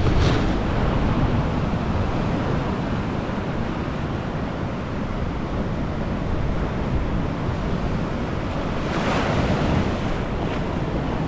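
Storm surf breaking on the beach, with wind buffeting the microphone in a steady low rumble; a wave swells up about nine seconds in.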